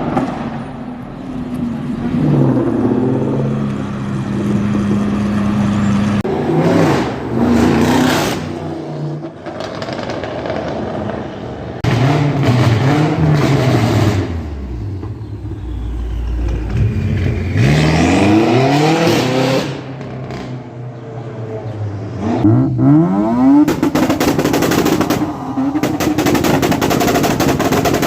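Supercar engines revving and accelerating away, their pitch rising and falling through the gears. Near the end come rapid strings of exhaust pops and crackles.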